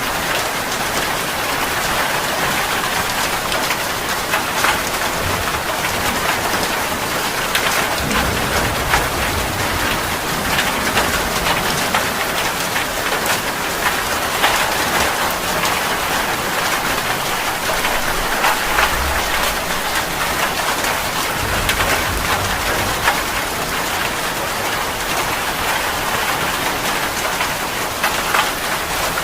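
Heavy rain falling steadily, with many individual drops striking a hard surface. A few low rumbles come and go in the middle.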